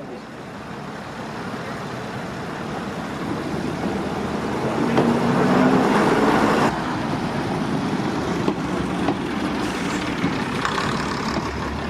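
A train drawing near, its rumble growing steadily louder for about six seconds, then dropping suddenly to a lower steady level with scattered light clicks.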